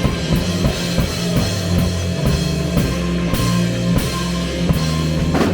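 Live rock band playing an instrumental passage: a drum kit keeps a steady beat with cymbal crashes over held bass notes and guitar, with no singing.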